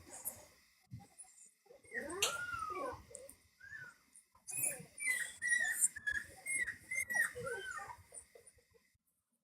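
Dog whining: one long cry that rises and falls about two seconds in, then a quick run of short high-pitched whimpers.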